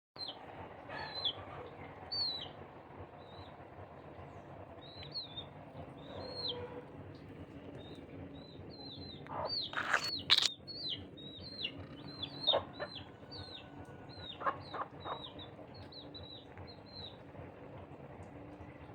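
Birds giving many short, high chirps that rise and then drop, about one or two a second, with a few loud knocks about halfway through.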